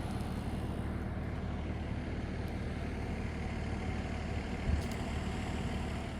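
Light rail train running with a steady low rumble, and a single knock about three-quarters of the way through.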